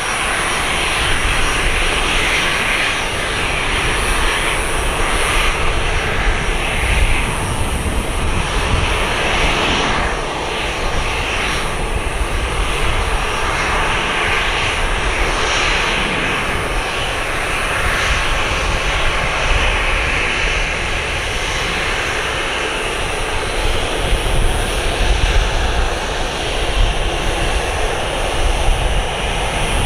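Boeing 737-800's CFM56-7B turbofan engines running as the airliner comes in to land: continuous jet noise with a deep rumble and a thin high whine, growing a little louder in the second half.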